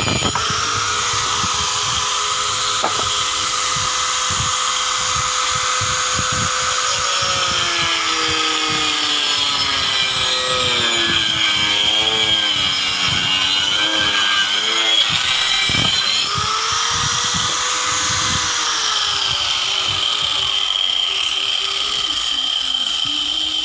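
Small electric power tool running continuously, its motor pitch sagging and recovering as it is pressed into the work, with the lowest dip about halfway through.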